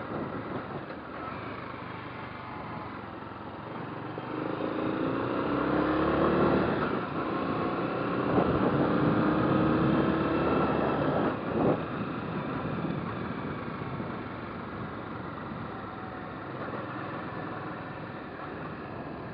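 Motorcycle engine accelerating over a steady rush of wind and road noise: its pitch climbs twice, with a shift between, then settles back to a steady cruise.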